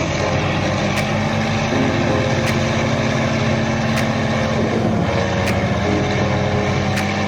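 Heavy truck or tractor engine running steadily under load, its pitch easing slightly about five seconds in.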